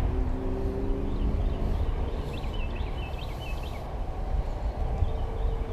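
Wind buffeting the microphone in a steady low rumble. A bird sings a short repeated chirpy phrase twice, and a steady low hum fades out after about a second and a half.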